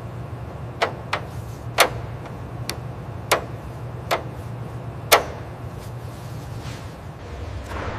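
About seven sharp clicks and knocks at uneven intervals, typical of tools and metal parts being handled during restoration work, over a steady low hum.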